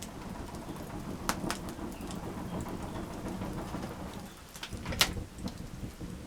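Wood campfire crackling: a low steady rush with a few sharp pops, the loudest about five seconds in.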